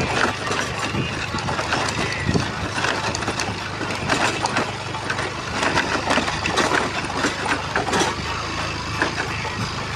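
A vehicle engine running steadily, with many short knocks and rattles over it.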